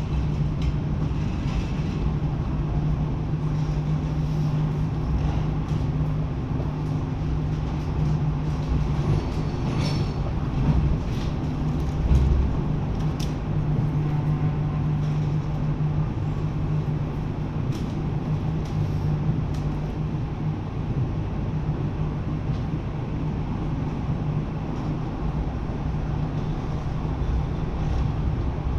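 Lausanne-Ouchy rack railway train running downhill, heard from on board: a continuous rumble with a steady low hum. There are a few clicks about ten seconds in and a louder low knock about twelve seconds in.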